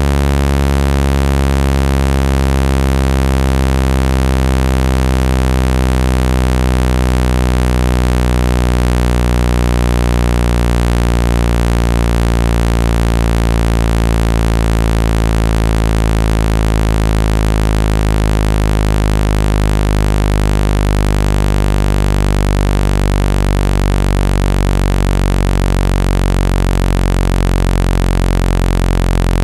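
Synthesized low buzzing tone, rich in overtones over a hiss of noise, held at a steady loudness: a water-eject sound made to shake water out of a phone speaker.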